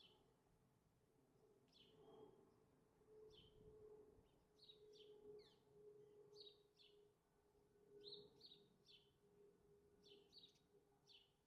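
House sparrows chirping faintly: short, repeated cheeps, often two or three in quick succession, at irregular intervals. A faint steady hum runs underneath.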